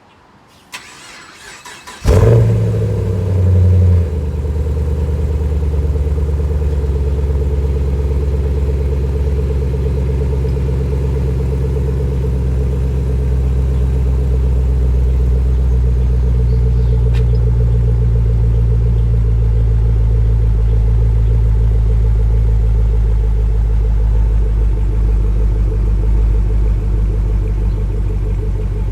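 Chevrolet Camaro SS V8 with a Borla exhaust cold-starting: a short crank from the starter, then the engine catches about two seconds in with a loud flare that lasts about two seconds, then settles into a steady, deep idle.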